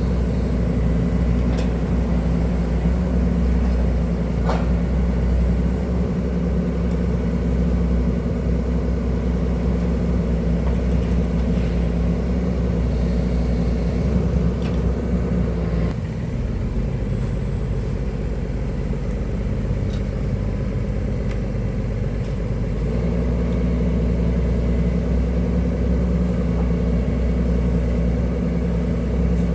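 Hydraulic excavator's diesel engine running steadily. About halfway through its note drops and softens for several seconds, then comes back up.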